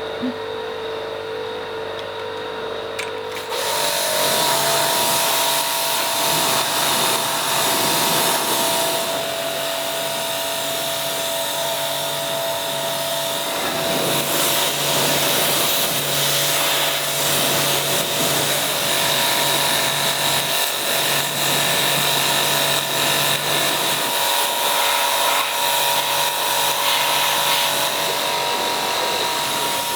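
A power tool's motor running steadily with a whine and a hiss. It gets louder and hissier about three and a half seconds in.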